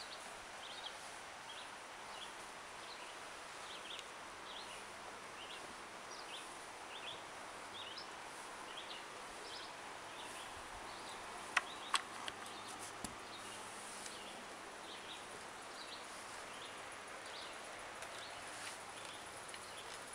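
Short high bird chirps repeating every second or so over a steady background hiss, with two sharp clicks a little past halfway.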